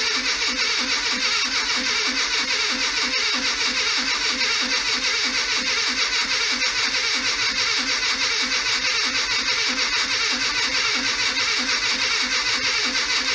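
Classic Mini A-series engine being cranked over on its starter motor with the ignition coil disconnected, so it turns steadily in an even rhythm without firing, to build up oil pressure after an oil pump change.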